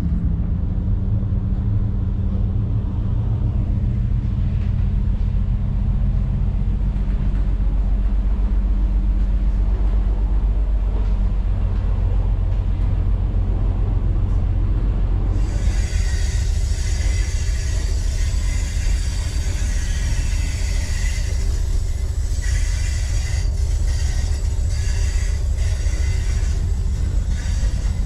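DPL-1 diesel train running, heard aboard as a heavy low rumble with a steady engine drone. About halfway through, a loud high-pitched noise joins the rumble and keeps on.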